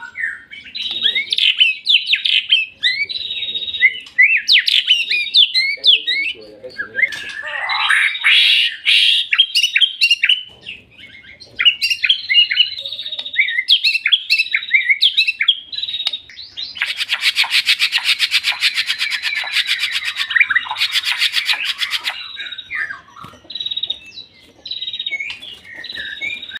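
Murai songbird singing a long, varied song of quick whistled phrases, with a fast buzzy rattle lasting about five seconds in the second half.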